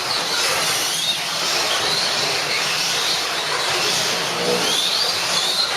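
Slot cars racing on the track: small electric motors whining, rising in pitch again and again as the cars accelerate, over a steady rush from the cars running in the slots.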